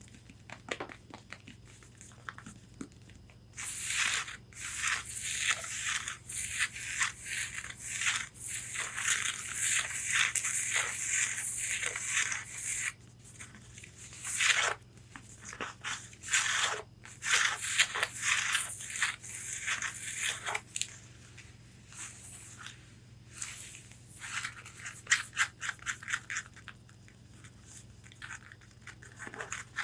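Long fingernails scratching and tapping on the fabric of a corset bodice: long stretches of rapid, dense scratching, broken by short pauses and scattered single taps.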